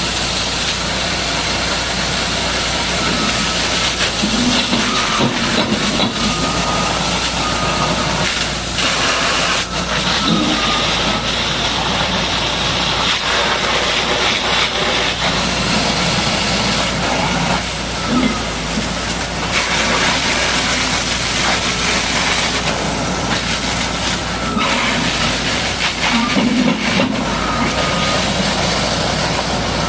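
High-pressure water spray hissing against a Caterpillar D8R bulldozer as it is washed, its hiss changing several times as the jet moves, over a steady engine hum.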